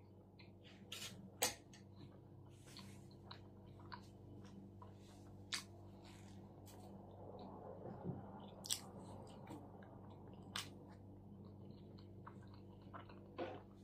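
A person chewing a mouthful of shawarma with closed lips: soft, irregular mouth clicks and smacks, a sharper one about a second and a half in. A faint steady low hum runs underneath.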